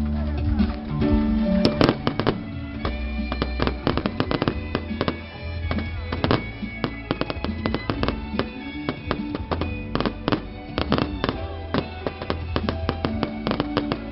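A rapid, irregular string of firecrackers cracking and popping, over festival music with a steady bass line.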